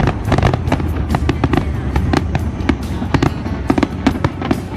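Aerial fireworks display firing a rapid barrage: many sharp bangs and crackles a second, one on top of another. Loud show music plays under it.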